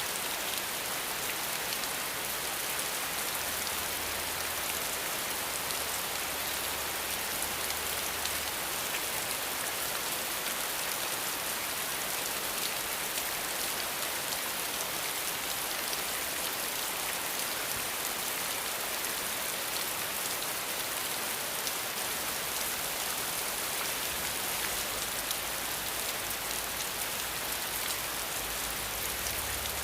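Rain falling steadily: an even, unbroken hiss with no single drops or other sounds standing out.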